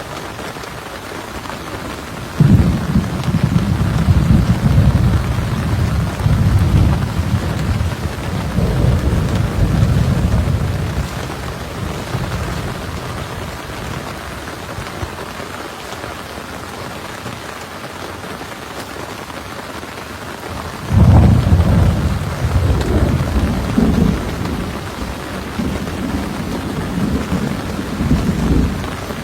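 Heavy rain falling steadily in a thunderstorm, with two long, low rolls of thunder: one breaking sharply a couple of seconds in and rumbling for several seconds, the other about two-thirds of the way through.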